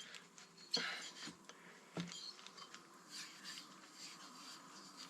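Faint rubbing of an oily rag being wiped around the inside of a Harley Evolution cylinder bore, with two small knocks in the first two seconds.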